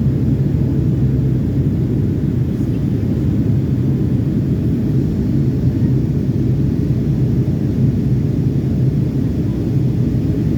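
Steady low rumble inside a Boeing 757-300's cabin in flight on descent: jet engine and airflow noise, with a constant low hum.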